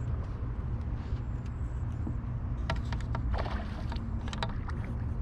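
Steady low rumble, with a run of sharp clicks and knocks from about two and a half to four and a half seconds in.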